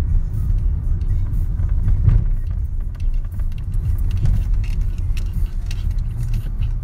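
Car driving, heard from inside the cabin: a steady low rumble of engine and road noise, with faint light ticks and rattles.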